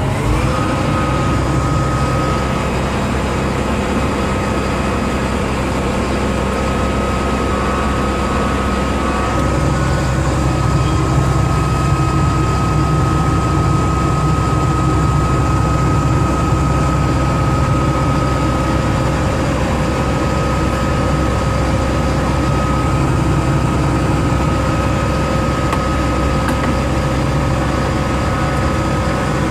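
Case IH 7230 combine's diesel engine running steadily just after start-up, a low drone with a steady high whine over it. The low drone grows louder about nine seconds in. The engine is running well and sounds fine.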